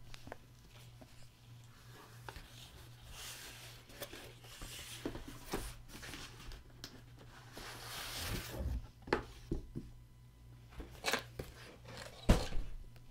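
Cardboard and packing material rustling and scraping as a boxed set is pulled out of its shipping carton, with a few sharp knocks in the second half.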